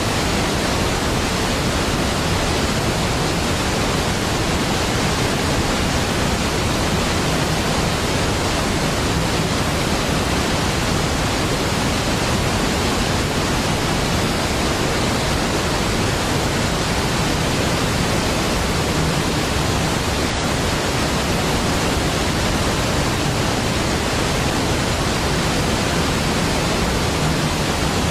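Large waterfall rushing: a steady, deep, unbroken wash of falling water.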